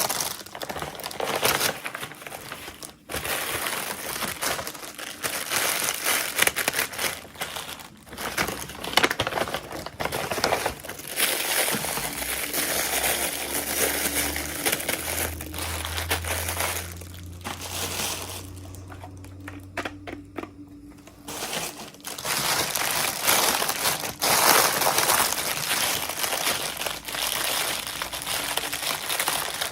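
Plastic toy packaging crinkling and rustling in irregular bursts as a miniature doll is unwrapped, with a quieter stretch about two-thirds of the way through.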